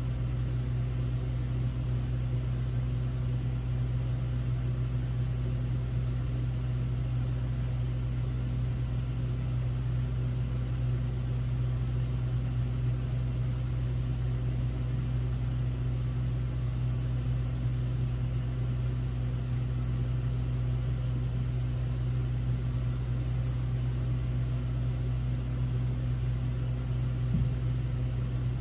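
Hotel-room air conditioner running with a steady low hum and an airy rush of fan noise.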